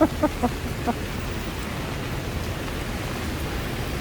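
Steady hiss of heavy rain with a low city rumble beneath it. A few short pitched sounds, like bits of a voice, fade out in the first second.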